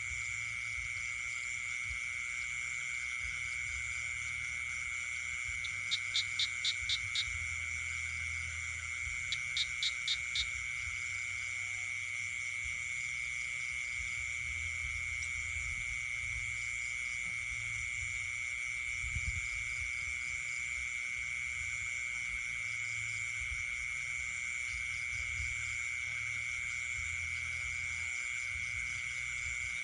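Night chorus of frogs and insects: a steady, unbroken high trilling with one strong constant tone. Two short runs of five or six quick, loud pulsed calls stand out, about six and ten seconds in.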